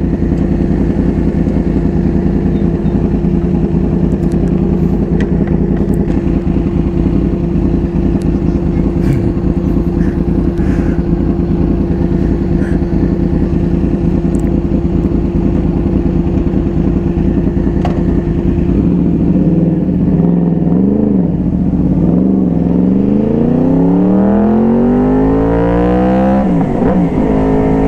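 Yamaha R1's crossplane inline-four idling steadily in neutral, then blipped a couple of times about two-thirds of the way in and accelerating away, its pitch rising, dipping at a gear change near the end and rising again.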